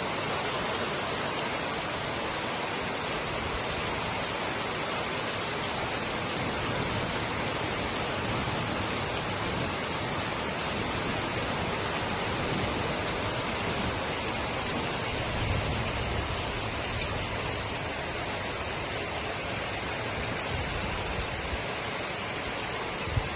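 Heavy rain pouring down as a steady, even hiss, with a low rumble swelling about two-thirds of the way through.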